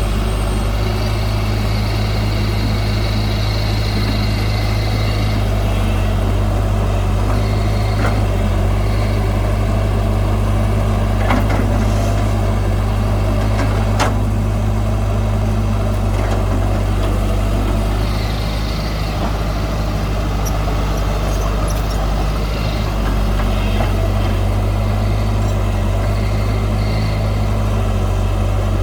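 Heavy diesel engine of earthmoving machinery running steadily with a low drone, with a couple of sharp metallic clanks about eleven and fourteen seconds in.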